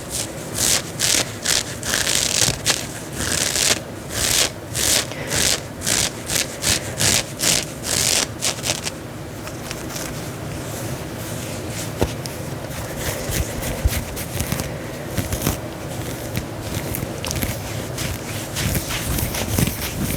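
Scratching on the fabric of a long, heavy dress worn close to the microphone: quick repeated scratching strokes, about two a second, then from about nine seconds in a softer, steadier rubbing of the cloth.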